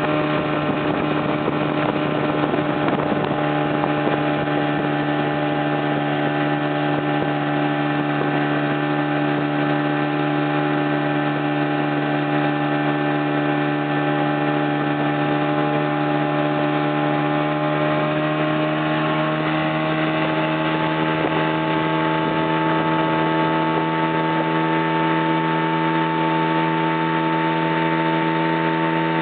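Motorboat engine running steadily at a constant drone, its pitch creeping up slightly in the second half.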